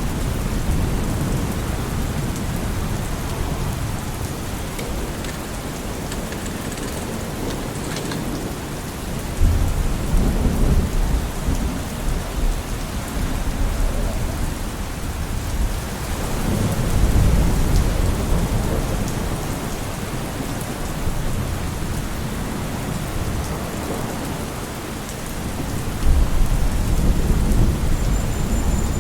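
Steady rain falling, with low rumbles swelling up three times: about a third of the way in, just past the middle, and near the end.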